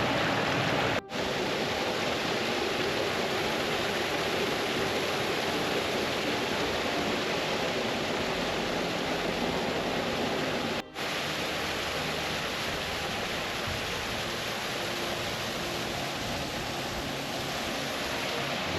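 Steady rushing of a stream cascading down a rocky gully, cutting out for a split second twice, about a second in and about eleven seconds in.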